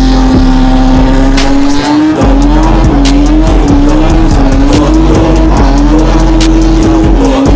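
Car doing a burnout: the engine is held at high revs while the tyres squeal, in one long continuous squeal whose pitch wavers up and down.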